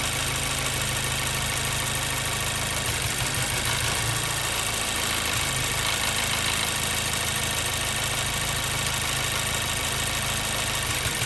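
2014 Mazda 3's 2.0-litre four-cylinder engine idling steadily while hot, with a number 2 cylinder misfire that the scanner shows happening significantly.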